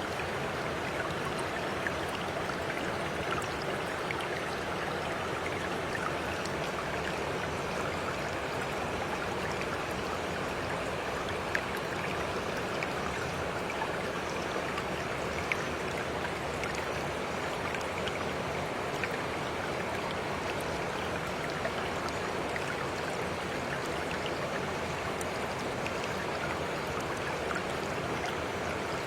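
Steady rushing water of a flowing stream, with a few faint sharp ticks scattered through it.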